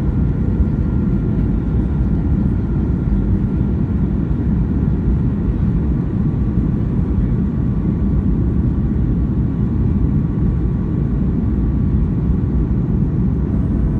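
Steady cabin noise of a Boeing 737-800 on approach: a constant low rumble of airflow and its CFM56 turbofan engines, with a few faint steady tones above it.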